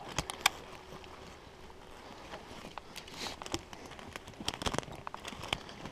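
Footsteps and scattered twig snaps and clicks as people move about in brush, the sharpest click about half a second in.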